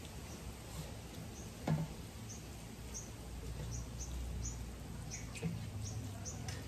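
Small birds chirping often in the background, short high chirps, over faint sounds of eating by hand from metal plates. A single sharp knock comes near two seconds in.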